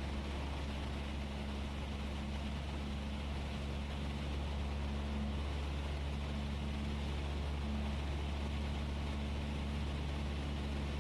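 Cessna 172S in flight: its four-cylinder Lycoming IO-360 engine and propeller running steadily, heard as a constant low drone with air noise inside the cabin.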